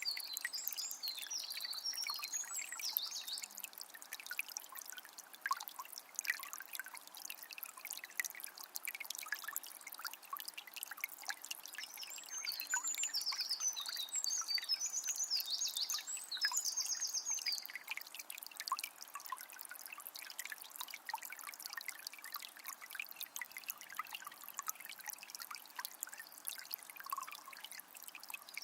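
Water of a small spring trickling and splashing steadily, with a songbird singing bursts of high, rapid trills near the start and again about halfway through.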